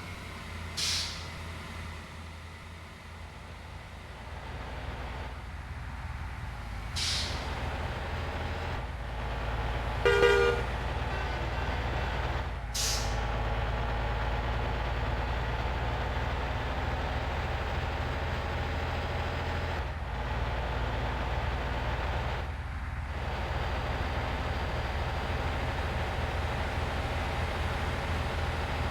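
Truck engine running steadily and building up in level, with a few short air hisses and one brief horn toot about ten seconds in.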